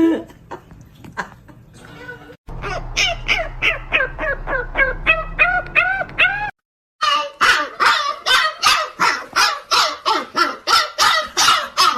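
A dog barking over and over, about three barks a second, in two runs split by a brief gap a little past halfway.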